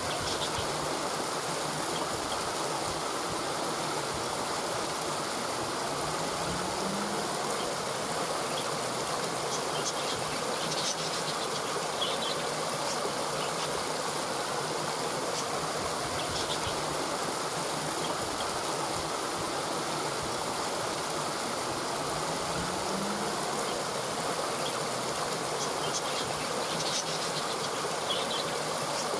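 Steady rushing of stream water, with faint high chirps now and then.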